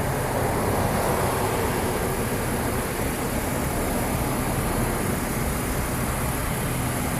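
Steady vehicle noise: an engine running evenly with a low hum under a wash of road-like noise.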